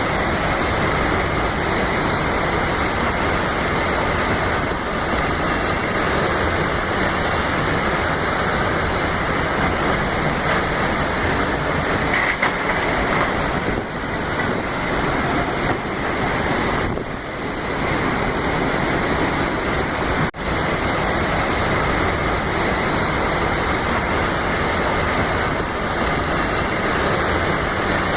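Heavy cyclone rain pouring with storm wind, a loud, steady rush of noise, with a brief drop about two-thirds of the way through.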